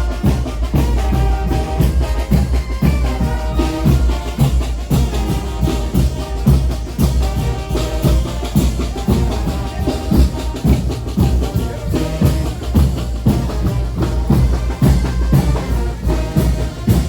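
A brass band playing a son de chinelo: trumpets carry the melody over a steady bass drum and percussion beat.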